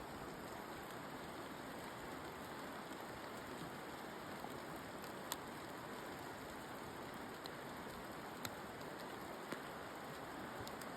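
Steady rain falling in the forest, an even hiss with a few sharp ticks of single drops scattered through it.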